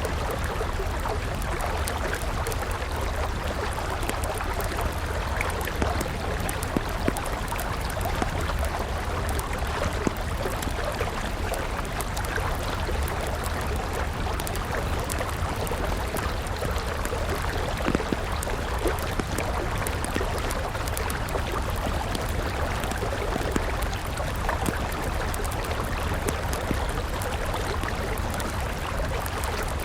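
A river flowing steadily with a wood campfire crackling over it, its small snaps scattered throughout and a few louder pops now and then.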